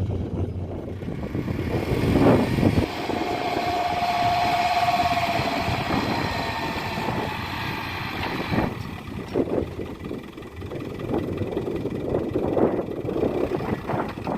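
Dump truck's engine running with mechanical noise and a brief whine a few seconds in. The noise drops off sharply a little past halfway and gives way to irregular knocks and rumbles.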